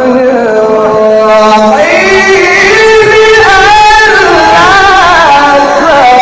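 A Quran reciter's voice holding a long, ornamented melisma in maqam Kurd, its pitch winding up and down and climbing higher about two seconds in.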